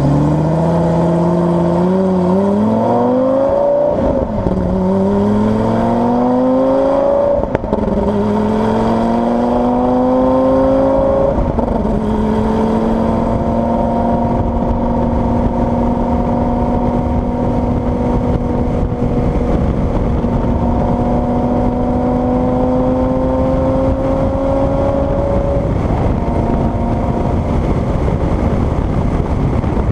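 Lamborghini Gallardo Superleggera's V10 engine pulling away and accelerating through the gears, its pitch climbing and dropping back at upshifts about 4, 7.5 and 11.5 seconds in. It then runs at a nearly steady engine speed that creeps up slowly before falling away near the end.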